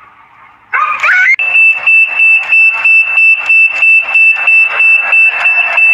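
A high-pitched electronic alarm tone, loud and steady, pulsing about three times a second, starting about a second in just after a brief rising squeal.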